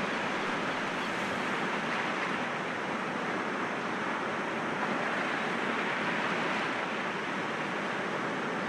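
Sea waves washing gently against rocks: a steady, even rush of surf that swells slightly about halfway through.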